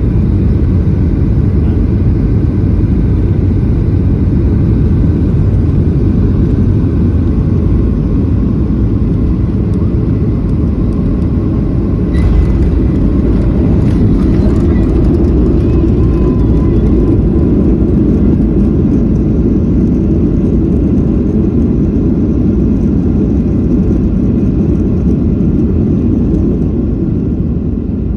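Airliner cabin noise: a loud, steady low rumble of the engines and rushing air, heard from a passenger seat. About twelve seconds in there is a sharp knock, followed for a few seconds by light rattling.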